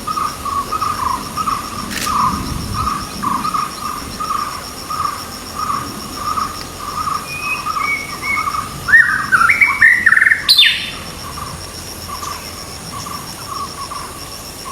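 Recorded birdsong over a steady insect trill: a low note repeated about twice a second throughout, with a louder burst of rapid, higher whistled phrases about nine to ten and a half seconds in.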